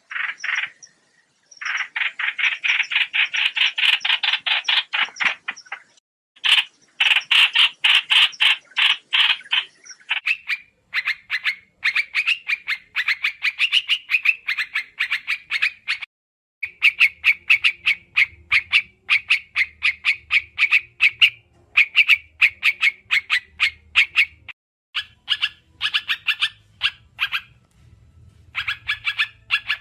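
A bird known in Vietnamese as 'trao trảo' calls in bouts of rapid chattering notes, many a second, with brief pauses between the bouts. This is a lure call of the kind played to attract birds for trapping.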